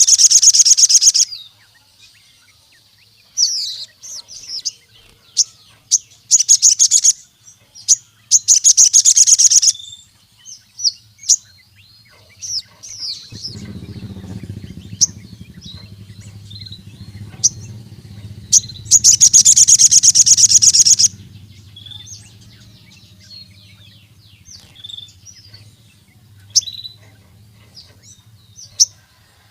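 Sogon (crimson sunbird) singing: loud, fast, high trills of a second or two, several times, with many short sharp chirps between them. A faint low hum comes in about halfway through.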